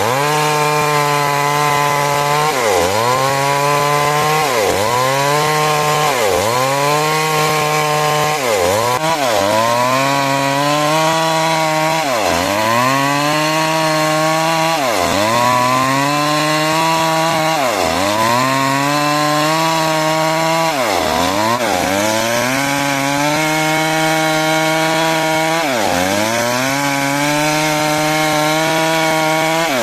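Two-stroke chainsaw cutting timber lengthwise into rafters. The engine runs at high speed, and every two to three seconds its pitch dips sharply and recovers.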